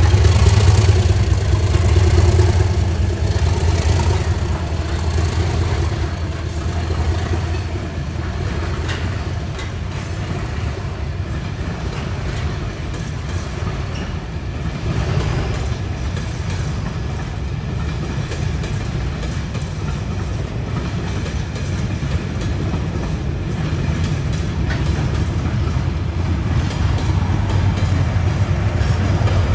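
Class 97/3 (a rebuilt Class 37) diesel locomotive's English Electric engine throbbing under load as it pulls a heavy loaded ballast train away. The throb eases to a steady rumble of wagons rolling past, with wheels clicking on the track, then the engine sound builds again near the end.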